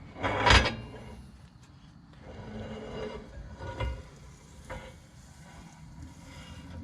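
Rear axle shaft being slid out of a Ford 8.8-inch axle tube: a loud metal clunk about half a second in, then scraping and rubbing of the shaft with a couple of lighter knocks. The shaft's bearing surface is worn and grooved by a failed wheel bearing.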